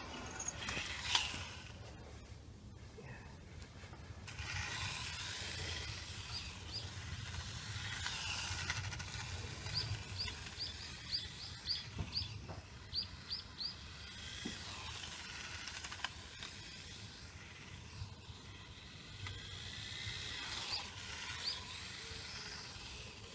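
Outdoor ambience: a steady hiss of background noise with a sharp click about a second in. Midway through, a small bird chirps a quick run of about a dozen short, high calls, a few more near the end.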